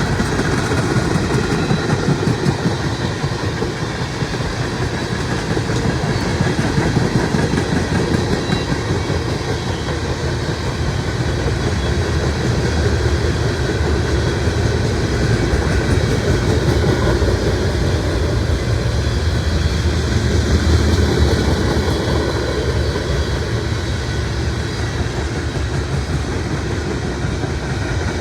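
Mixed freight train's cars rolling past in a steady rumble, with rapid wheel clatter on the rails.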